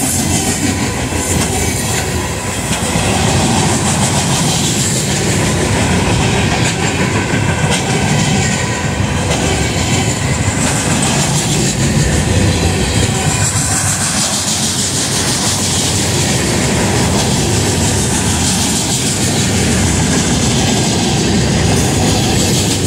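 Union Pacific freight train's loaded flatcars rolling past close by: a loud, steady rumble of steel wheels on rail, with clicking as the wheels cross rail joints.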